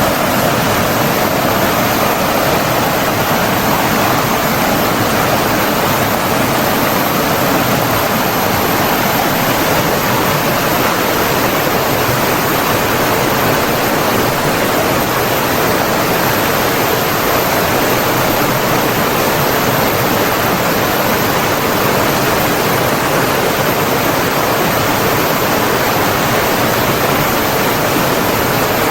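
Steady rush of flowing water, a stream or small waterfall, running evenly without change.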